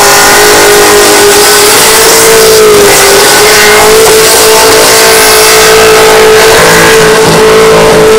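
LS1 V8 held at high revs during a burnout, very loud, with a brief dip in revs about three seconds in before climbing back and holding steady.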